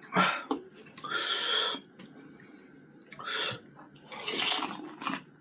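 Close-up mouth sounds of eating pani puri: the crisp puri shells crunching and the sour spiced water being slurped, in several short bursts with small clicks between.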